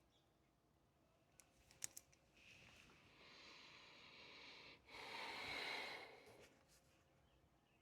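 A few faint clicks, then a long breath in followed by a louder breath out, like a sigh.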